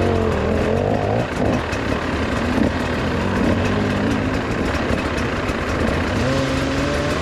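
Enduro dirt bike engine running steadily at low revs, near idle.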